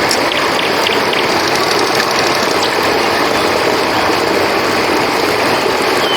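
River water flowing in a steady, dense rush. A few faint ticks sound in the first second.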